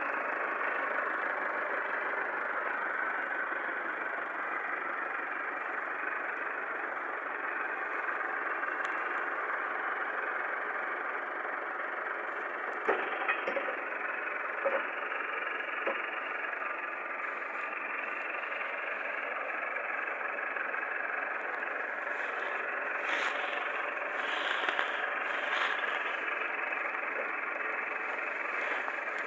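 Millat tractor engine running steadily, with a few brief knocks about halfway through.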